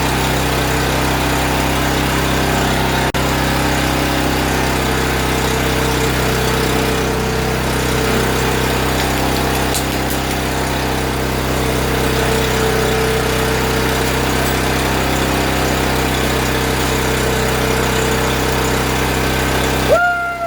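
Honda GX240 single-cylinder engine on a Wacker generator running steadily at constant speed just after starting, freshly repaired with a cleaned carburetor and new fuel petcock and lines. Near the end the engine sound cuts off sharply.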